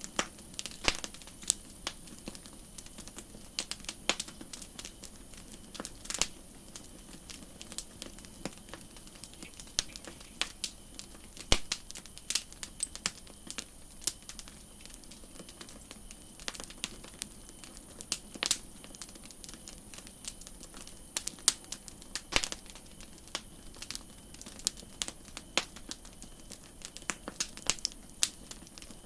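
Campfire crackling: irregular sharp pops and snaps, sometimes several close together, over a steady soft hiss.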